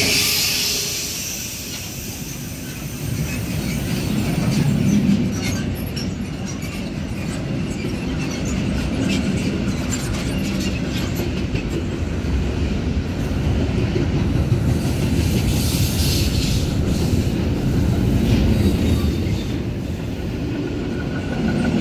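Long freight train of sliding-wall wagons and steel-coil flat wagons rolling past steadily, wheels rumbling and clacking over rail joints. The wheels squeal at the start and again about two-thirds of the way through.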